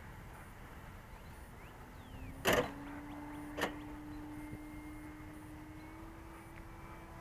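Electric motor of a radio-controlled aircraft, a steady hum that creeps slightly higher in pitch. Two sharp knocks about a second apart, the first the loudest sound.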